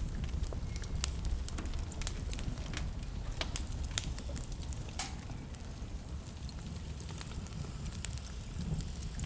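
Wood fire in a fireplace crackling, with frequent sharp, irregular pops and snaps over a low steady rumble of the flames.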